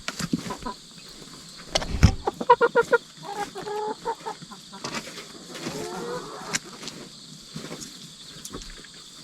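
Domestic hens clucking: a quick run of about five clucks a couple of seconds in, then longer drawn-out calls, among scattered sharp knocks and scratches. A steady high insect chirr runs underneath.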